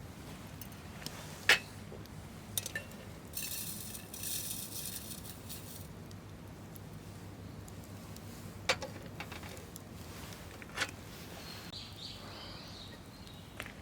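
Camp cookware and utensils clinking and knocking now and then: a few sharp knocks, the loudest about a second and a half in, and a brief hiss for about two seconds a little after three seconds in.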